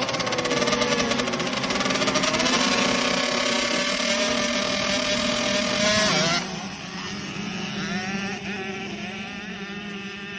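Dirt bike engine running close, its pitch rising and falling with the throttle. About six seconds in it drops sharply in loudness and goes on fainter, still wavering in pitch.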